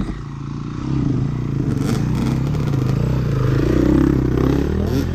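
Dirt bike engine running under throttle, its pitch wavering as the revs rise and fall, louder from about a second in.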